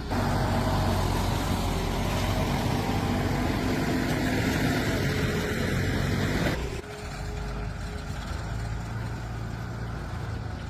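A motor vehicle engine running steadily, loud for about six and a half seconds, then dropping abruptly to a quieter steady run.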